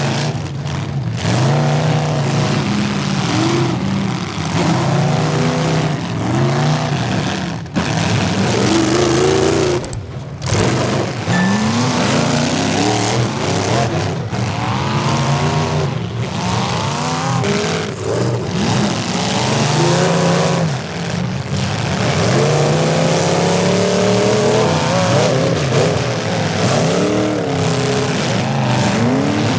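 Several demolition derby cars' engines revving hard at once, each rising and falling in pitch, with tyre noise underneath. The sound breaks off briefly twice, about a third of the way through.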